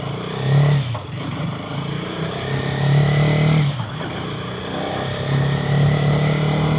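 KTM Duke 250's single-cylinder engine pulling away and accelerating, heard through a mic inside the rider's helmet. The engine note climbs and drops back briefly twice, about a second in and again near the middle, as it shifts up.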